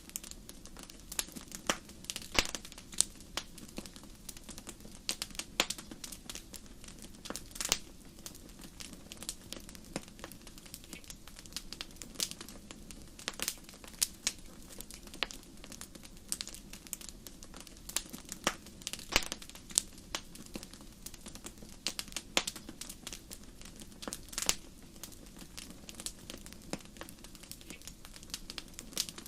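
Wood fire in a fireplace crackling: irregular sharp pops and snaps, several a second at times, over a low steady rumble of flames.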